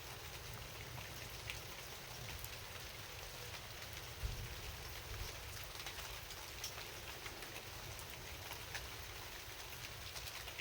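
Steady rain falling, with many scattered ticks of single drops over an even hiss and a low rumble underneath; a single louder thump a little past four seconds in.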